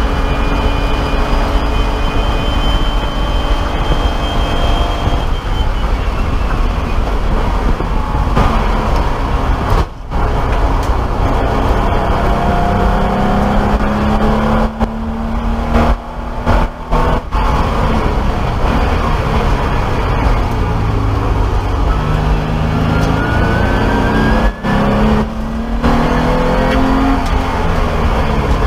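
BMW E30 race car's straight-six engine heard from inside the stripped cabin, held at high revs at speed and then falling in pitch as the car slows. Several brief drops in sound come at gear changes, with the revs climbing again after each.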